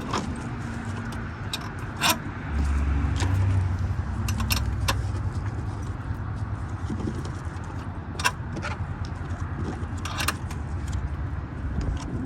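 Hand tools clinking and clicking against metal as a stubborn battery fastener is worked loose, several separate sharp clinks. Under them runs a steady low rumble that swells for about a second and a half early on.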